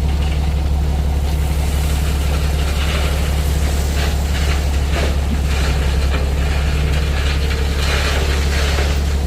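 A heavy engine running steadily with a deep, even drone, with intermittent clanks and rattles over it.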